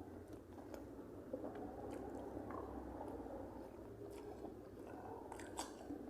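A person chewing a mouthful of food close to the microphone, with a few sharp clicks near the end.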